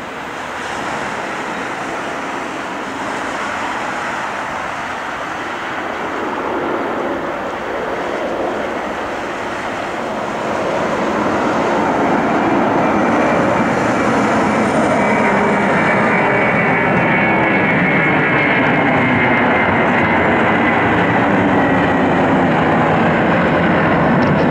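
Airliner jet engines: a rushing roar that builds, grows louder about halfway through and then holds loud, with a faint high whine in the second half.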